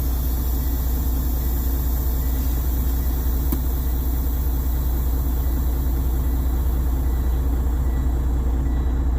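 Freightliner semi truck's diesel engine idling steadily, heard from inside the cab, with one faint click about three and a half seconds in.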